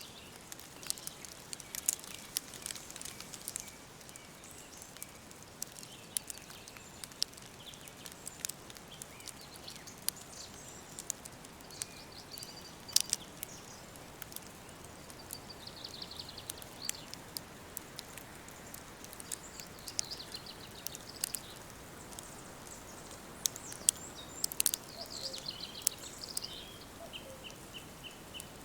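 Woodland birds singing and chirping over a soft steady hiss, with frequent sharp clicks and crackles scattered throughout. Near the end a bird gives a quick run of repeated short notes.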